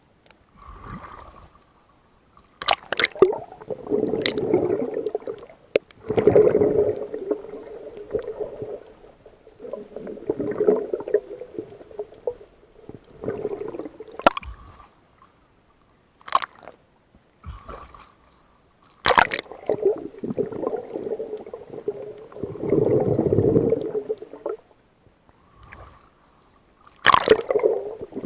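Water sloshing and gurgling in irregular surges a second or two long, with short sharp knocks in between.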